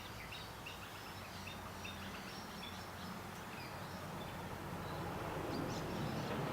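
Motor oil pouring from a bottle into the engine's oil filler, the gurgling stream growing louder over the last couple of seconds and then stopping abruptly. Small birds chirp repeatedly in the background.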